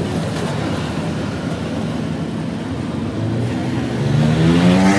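A motor vehicle engine running, with a low, even hum. Over the last couple of seconds its pitch climbs and it grows louder.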